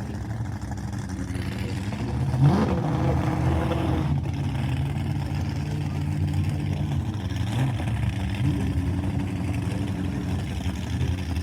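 Monster truck engine running with a steady drone, revved up and back down briefly about two seconds in and again about two-thirds of the way through.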